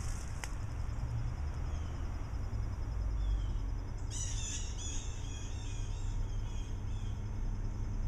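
A bird calling in a quick run of short chirps for about three seconds, starting about four seconds in, over a steady low rumble of distant city traffic.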